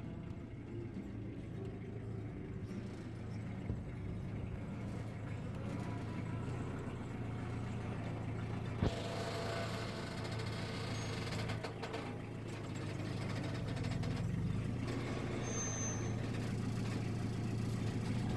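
An engine running steadily at an even low pitch, with a single sharp click about nine seconds in.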